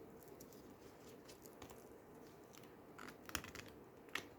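Oracle cards being handled against faint room hiss: a few soft taps and clicks about three seconds in, and one more near the end.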